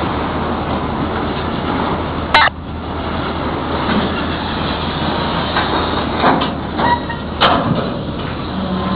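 Freight train of lumber-loaded centerbeam flatcars rolling past: a steady rumble, broken by a few sharp clanks and knocks from the cars, the loudest about two and a half seconds in and again about seven and a half seconds in.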